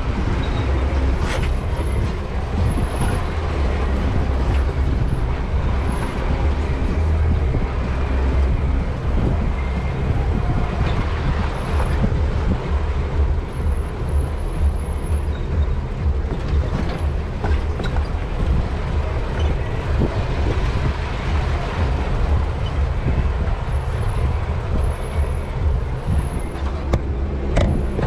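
Steady low rumble of an off-road vehicle moving over rough trail, with a few faint knocks.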